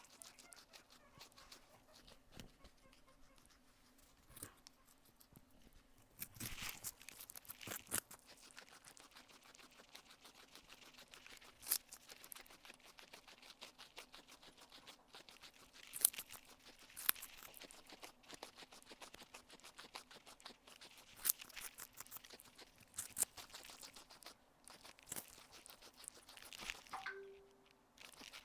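Guinea pig chewing food close to the microphone: a fast, steady run of small clicks, broken every few seconds by louder crunches as it bites off fresh pieces.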